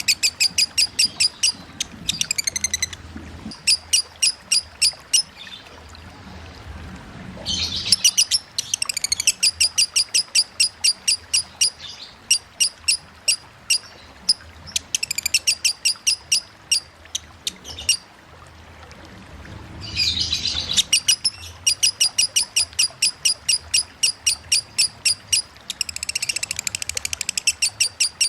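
Lovebird singing its long chattering 'konslet' song: rapid shrill chirps repeated about four or five times a second, in runs of several seconds broken by short pauses. A faint steady hiss of running water lies underneath.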